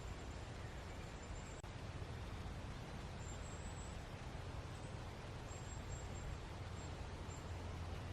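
Steady outdoor ambience of woodland at night: an even hiss with a low rumble, one sharp click about a second and a half in, and faint, broken high-pitched chirps.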